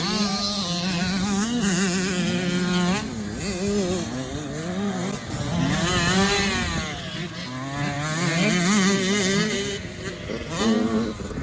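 Several dirt bike engines revving and easing off as the bikes ride the track, their pitches rising and falling over one another.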